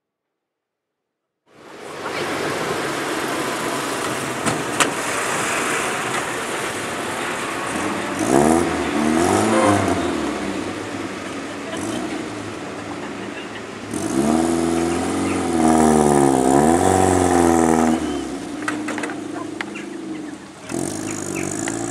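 A classic Mini's engine starts running suddenly, then is revved: one short rise and fall, and later a longer spell of revs going up and down several times as the car pulls away.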